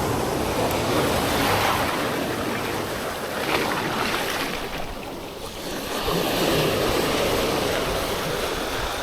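Surf breaking and washing up the beach, with strong wind buffeting the microphone. The wash eases around five seconds in and swells again about a second later.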